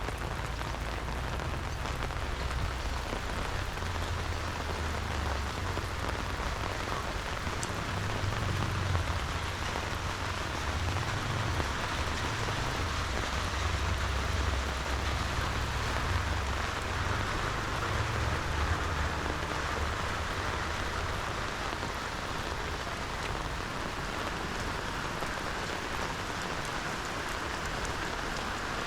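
Steady rain falling, a constant even hiss with faint scattered drop ticks, over a low rumble that swells and fades through the middle.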